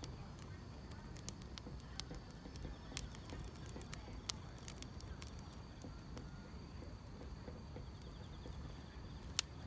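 Firewood burning, with irregular crackles and sharp pops over a low steady rumble, the sharpest pop near the end. Faint chirping of grass insects runs underneath.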